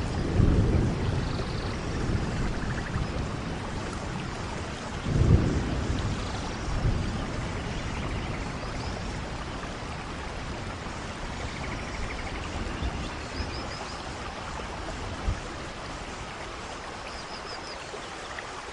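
Steady heavy rain in a rainforest, with low rumbles of thunder at the start and again about five seconds in. A few faint high chirps sound over the rain.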